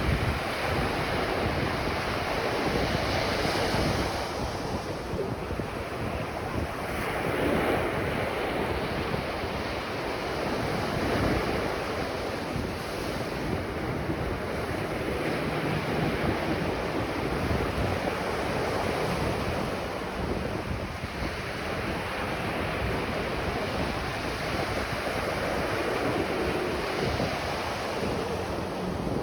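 Ocean surf breaking on a beach, the wash swelling and easing every few seconds, with wind buffeting the microphone.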